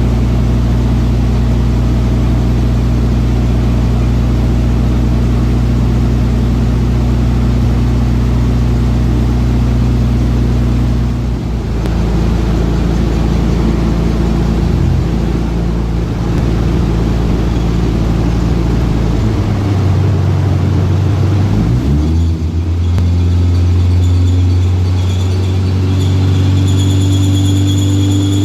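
Car engine running at fairly steady revs; its pitch shifts about a third of the way in, then dips and climbs again around two-thirds of the way through before holding steady.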